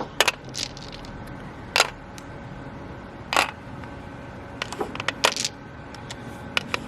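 Mahjong tiles clicking as they are picked up and set down, a dozen or so sharp clacks, some single and some in a quick cluster about five seconds in.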